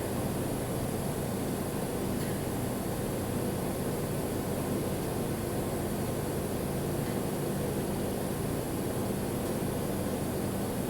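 Steady mechanical hum with a hiss, unchanging throughout.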